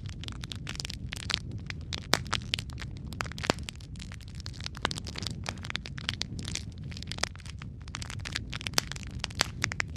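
Wood fire crackling: a steady low rumble of flames with dense, irregular pops and snaps, a few of them sharper and louder.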